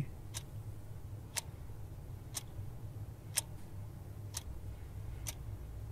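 Clock ticking evenly, about one tick a second, six ticks in all, over a faint steady low hum.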